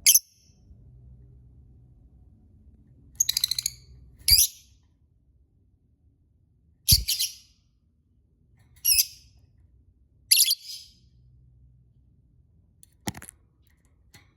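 Lovebird giving short, shrill chirping calls in about seven separate bursts a second or two apart, one of them a quick rattle of chirps, with a few sharp clicks among them.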